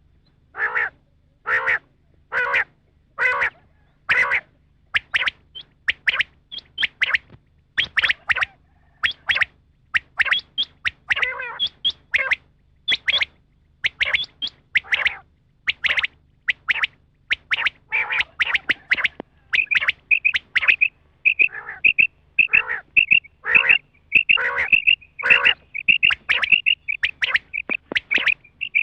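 Quail (batair) calling, which the uploader names rain quail: a recorded call of the kind played as a lure in quail hunting. It is a string of short, sharp calls about one or two a second, and from about twenty seconds in a quicker run of high, thin chirps joins them.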